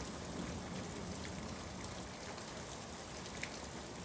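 Steady rain falling during a thunderstorm, an even hiss with no lulls.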